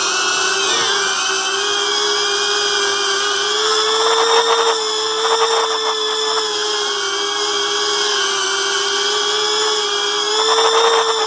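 Cinewhoop FPV quadcopter's motors and ducted propellers whining steadily, the pitch wavering slightly, with brief louder, rougher surges about four seconds in and again near the end.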